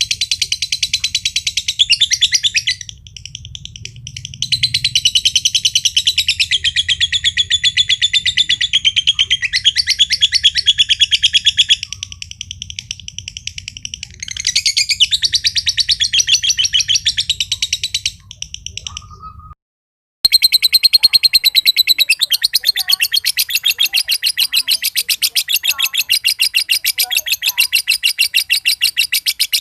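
Green lovebird giving its long 'ngekek' song: a rapid, high-pitched chattering trill of many notes a second, in long stretches with short pauses. After a brief silence a little past halfway it chatters on without a break.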